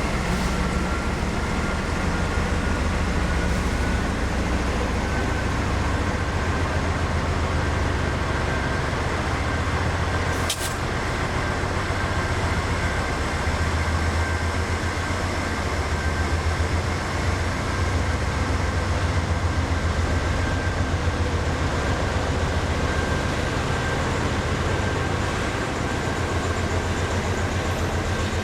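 Diesel freight locomotives running with a steady, pulsing low rumble and a faint steady whine above it. A single short click about ten and a half seconds in.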